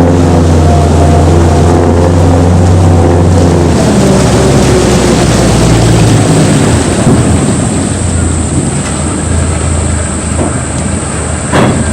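Engine of a World War II DUKW amphibious truck running loud with a low, even drone that drops off about four seconds in, giving way to a rougher rushing noise as the vehicle drives down into the water. A short sharp knock or splash comes near the end.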